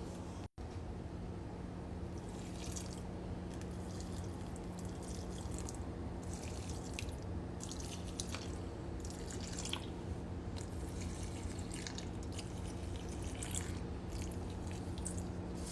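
Water dripping and splashing in irregular small drops over a steady low hum.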